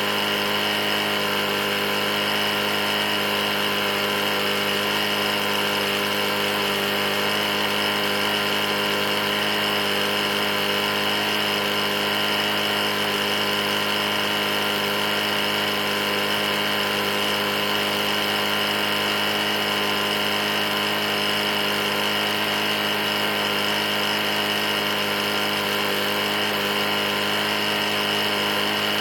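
Briggs & Stratton E450-series single-cylinder mower engine running steadily at a constant speed. The engine has a bad knock, which the owner says came after it was run nearly out of oil.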